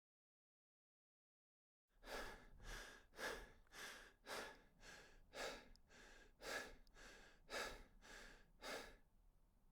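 Quick, rhythmic breathing, about two breaths a second, starting about two seconds in after dead silence.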